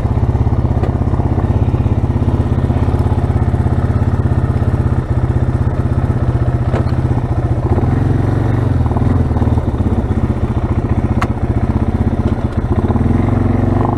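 Suzuki Eiger 400 ATV's single-cylinder four-stroke engine running steadily while the quad is ridden at a cruise, its note shifting a little about eight seconds in and again near the end.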